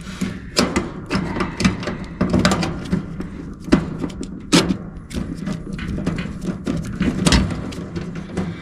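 Irregular clicks, taps and knocks of metal parts and screws being handled inside an electric furnace cabinet while a new sequencer is mounted, over a steady low hum.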